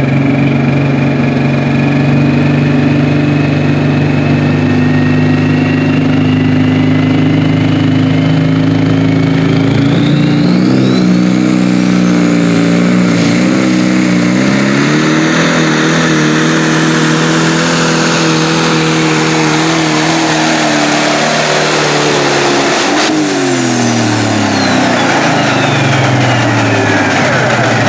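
Pro stock pulling tractor's turbocharged diesel engine working hard under load down the track, with a high turbo whine climbing as it spools up. Partway through, the engine's pitch wavers and steps as it labours against the sled. Near the end the throttle comes off and the engine and turbo whine wind down together.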